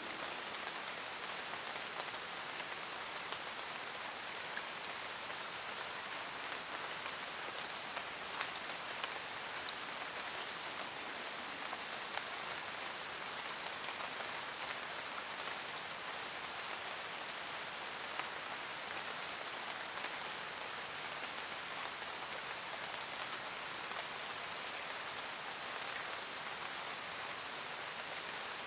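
Steady forest rain: an even hiss of falling rain with scattered sharp drop ticks.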